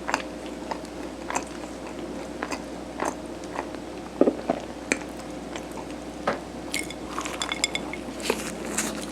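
Close-up eating of soft steamed rice cake: wet mouth clicks and chewing at irregular intervals. A louder pair of clicks comes about four seconds in, and a run of small clinks of a utensil on a dish comes near the end.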